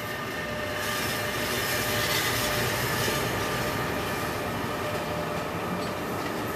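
A New Jersey Transit electric push-pull train of Multilevel coaches passing close by with its locomotive at the rear: steady rolling noise of the wheels on the rails, with a thin steady whine over it. It is loudest about two seconds in.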